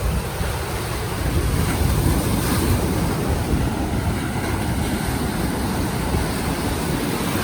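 Surf breaking and washing in the shallows, with wind rumbling on the microphone.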